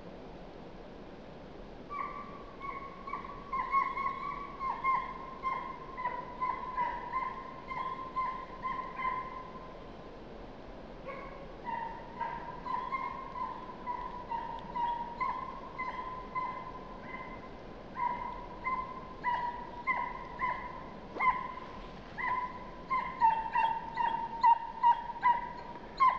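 Russian hound bitch giving tongue on a hare's trail: a long run of short yelping bays, several a second. It starts about two seconds in, breaks briefly near the middle and grows louder toward the end.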